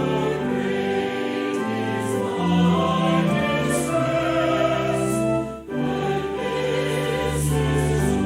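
Choir singing a slow piece in sustained chords, with a short break between phrases about five and a half seconds in.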